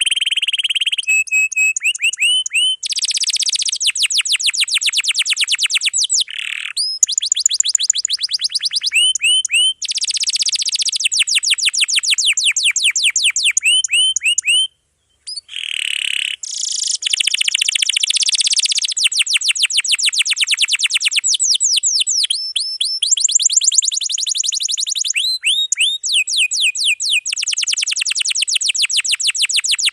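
Canary singing continuously in long, fast trills of rapidly repeated high notes, phrase after phrase, with only a short break about halfway through.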